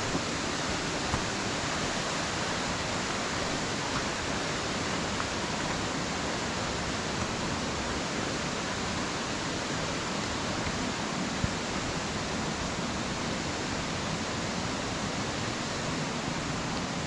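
Waterfall pouring into its splash pool, a steady unbroken rushing. It is running wide and powerful after rain.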